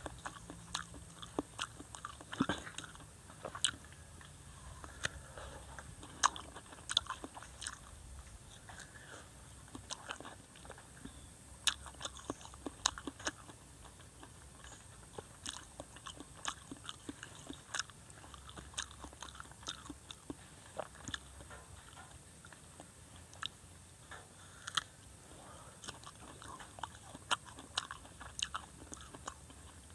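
Close-up chewing of macopa (wax apple) fruit, the crisp flesh giving many short, irregular crunching clicks, several a second.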